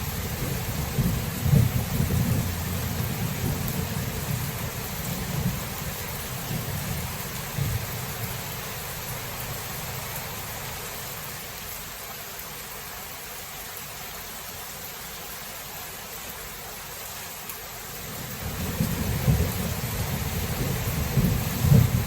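Steady rain with thunder. Low rolling thunder rumbles at first and dies away about halfway through, leaving the rain hiss alone for several seconds. A new peal of thunder builds near the end, with a few sharp cracks.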